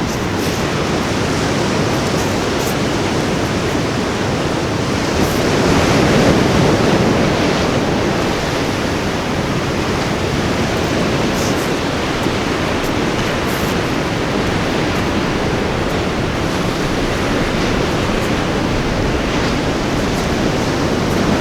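Ocean surf washing onto a beach in a steady rush, with one wave swelling louder about six seconds in.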